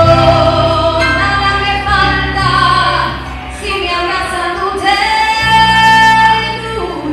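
A woman singing with backing music, holding long, gliding sung notes over steady bass notes.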